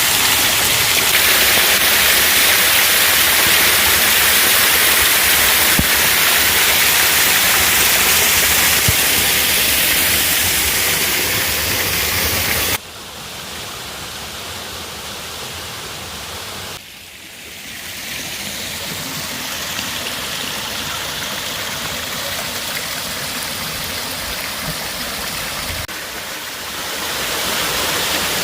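Nanairo Falls, a small waterfall, rushing steadily. Its level drops suddenly about halfway through and again a few seconds later, then rises back in steps near the end.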